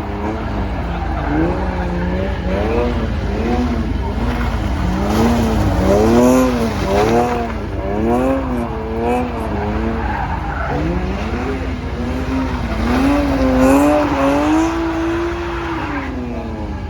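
A car engine revved hard, its pitch swinging up and down about once a second, with tyres skidding on the tarmac; near the end the revs climb and hold high before dropping.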